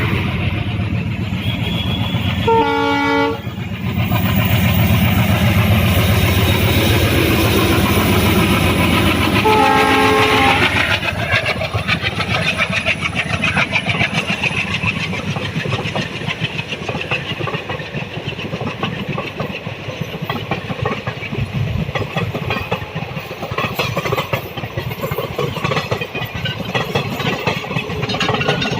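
Passenger train running in toward its terminus: a steady rumble with wheels clattering on the rails. Its horn sounds two short blasts, about three seconds in and again about ten seconds in.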